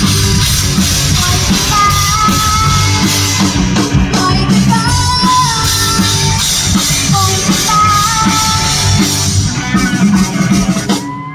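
Live rock band playing: a female singer over electric guitar, bass and drums. The music drops off near the end as the song finishes.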